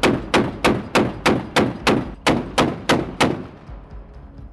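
Mark 38 25 mm naval gun (M242 Bushmaster chain gun) firing a steady stream of rounds at about three a second, then ceasing fire a little over three seconds in, the last shot echoing away.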